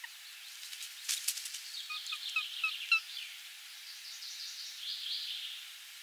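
Birds calling: a quick series of five or six short, evenly spaced notes about two seconds in, then a higher chattering call near the end. A few sharp clicks come just before the first series.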